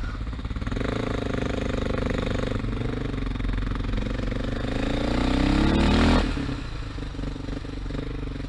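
Motorcycle engine accelerating, its pitch rising steadily for about five seconds, then dropping suddenly as the throttle is shut or a gear is changed, and running on at a lower pitch.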